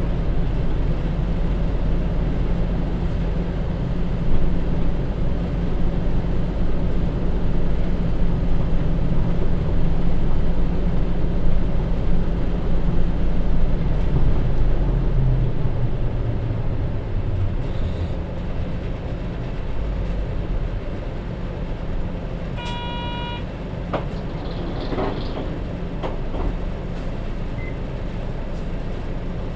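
Hino J07E six-cylinder diesel of a city bus running, heard from inside the cabin; the engine note falls away about halfway through as the bus slows. A brief electronic tone sounds about two-thirds through, followed by a few sharp clicks.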